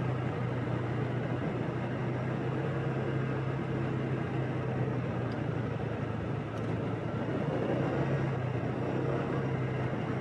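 Motorbike engine running steadily while riding, with a continuous rush of road and wind noise.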